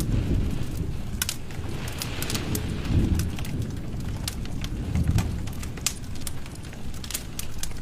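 Wood fire in a fireplace crackling: frequent irregular sharp pops and snaps over a low rumble of flames that swells a few times.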